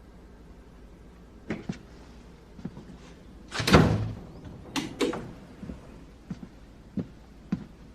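A door being handled and shut: a heavy thud about three and a half seconds in, two sharp knocks just after, then lighter knocks about every half second.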